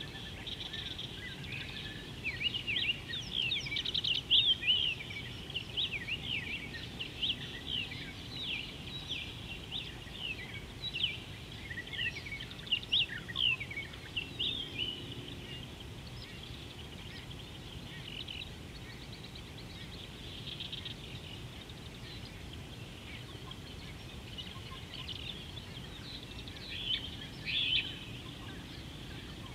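Birds calling in many quick, sharp chirps for the first half, then fewer, with a short flurry near the end, over steady background noise.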